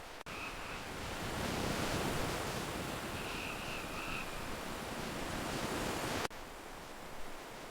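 Steady rushing of water, with a few faint high bird calls over it. It starts abruptly about a quarter second in and cuts off abruptly about six seconds in.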